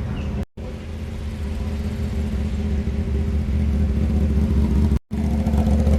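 A car engine running steadily close by, with a low rumble that slowly grows louder. The sound cuts out for an instant about half a second in and again near the end.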